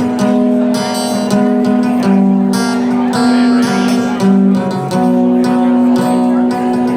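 Live band music led by strummed guitar chords, the chords changing every half second to a second.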